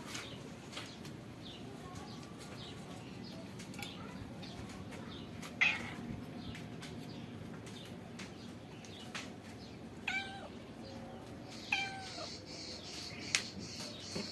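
Domestic cats meowing in short separate calls, the clearest about 5.5, 10 and 12 seconds in, the last sliding down in pitch, with fainter mews and small clicks between.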